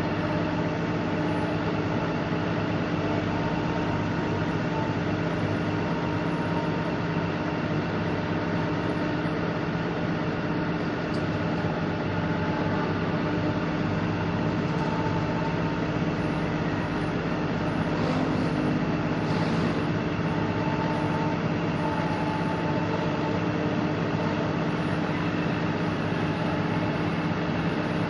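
Diesel engine of heavy construction equipment running steadily at constant speed, an even drone with a steady low hum.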